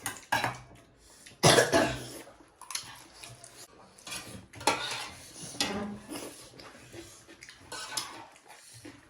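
Spoon clinking and scraping against a plate of rice and gravy while eating, in irregular strokes, with the loudest clatter about a second and a half in.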